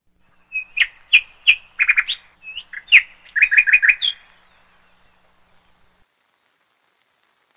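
A bird singing a series of sharp, high chirps mixed with quick runs of four or five repeated notes, stopping about four seconds in.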